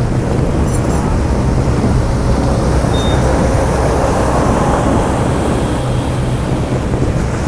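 Boat engine running steadily, a loud, even low drone with wind and water noise over it.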